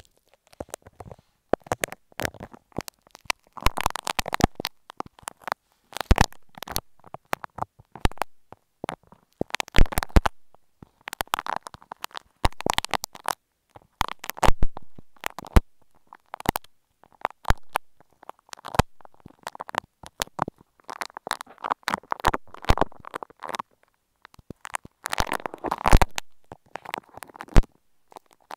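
Grainy, bead-filled clay squeezed and picked at right against an earphone microphone: irregular sticky crackles and sharp clicks in short bursts, with brief gaps between them.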